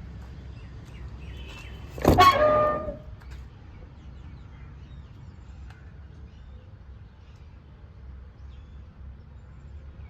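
Truck diesel engine idling with a low, steady rumble. About two seconds in comes a loud, sudden clunk with a brief ringing tone that fades within about a second.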